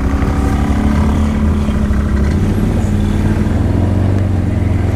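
Engine of an off-road vehicle running steadily under way, its note shifting slightly a little over two seconds in.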